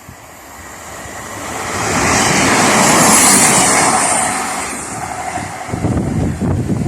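A train passing at speed, building to its loudest about three seconds in and then fading, with a faint high whine at its loudest. Low rumbling follows near the end.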